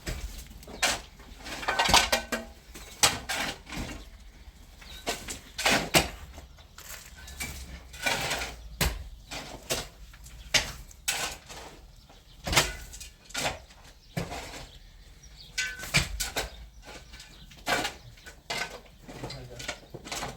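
Irregular sharp knocks and clatters, about one or two a second, some ringing briefly, with voices in between.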